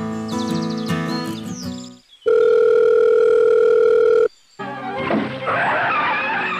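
Strummed guitar music that cuts off about two seconds in, followed by a loud, steady electronic beep like a telephone dial tone, held for about two seconds and stopping suddenly. After a brief gap, a busy jumble of noise fills the rest.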